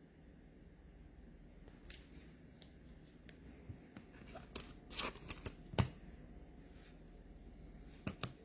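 Faint handling of trading cards and their packaging: light rustles and a few short clicks as cards are slid and flipped.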